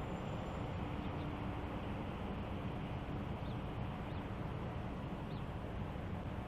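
ALCo S1 switcher locomotive's diesel engine running steadily, with a held tone in the first few seconds. A few faint bird chirps come over it.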